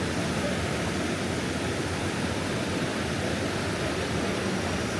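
Steady rushing of a wide stream's flowing water, an even, unbroken wash of noise.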